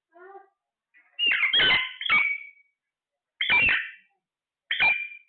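Pet parrot squawking: a faint call at the start, then a run of loud, harsh, clipped calls about a second in, followed by two more single squawks spaced about a second and a half apart.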